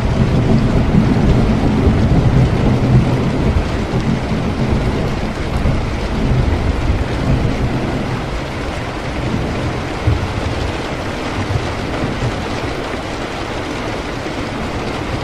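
Steady rain with a low rolling rumble of thunder that dies away about halfway through.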